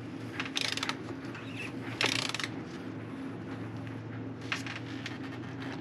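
A ratchet turning the cap wrench on the oil filter housing cap of a BMW N55 engine, cracking the cap loose to let air in for draining. The ratchet goes in a few short bursts: about half a second in, about two seconds in, and briefly near four and a half seconds. A steady low hum runs underneath.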